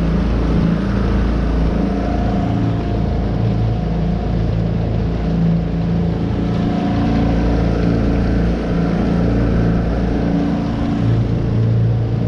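Tohatsu 9.8 hp four-stroke outboard motor running steadily at an even speed, pushing a small V-bottom boat along.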